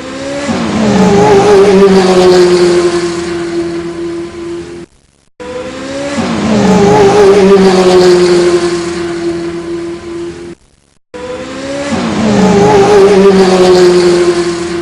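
A car engine sound played three times identically, with short breaks between: a looped sound effect. Each time it swells, its pitch slides down and settles, and then it fades away.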